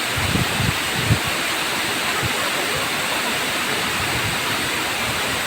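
Waterfall with water rushing down steadily, a loud, even roar, with a few short low thumps in the first second or so.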